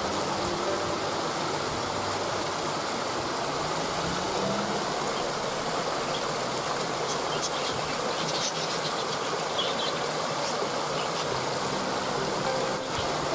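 Waterfall rushing steadily, with a few short bird chirps about halfway through.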